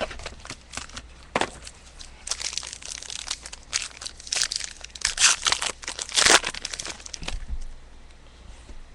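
Trading card pack wrapper being crinkled and torn open, with light clicks of card handling; the crinkling is densest in the middle and fades near the end.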